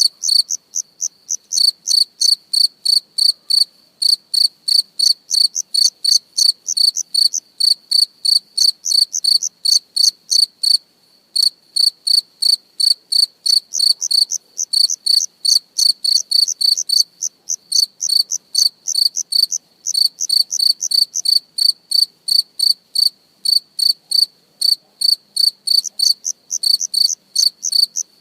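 Insect chirping: a steady run of short, high-pitched chirps, about three a second, broken by a couple of brief pauses.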